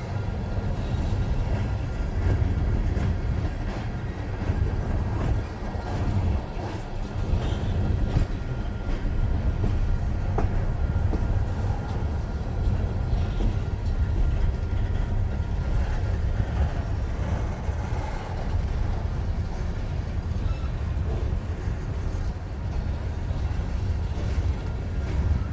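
Union Pacific freight train rolling past, a steady low rumble of railcars on the track.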